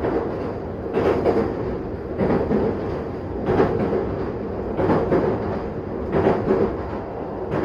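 Running noise inside a JR Mito Line commuter train car at speed: a steady rumble with a regular clack from the wheels passing over rail joints, about once every 1.3 seconds.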